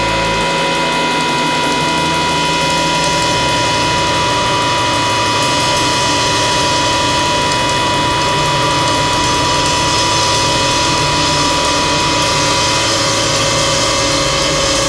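A rock band's sustained, distorted drone closing out a song: a loud, dense wash of noise with several held tones and no beat.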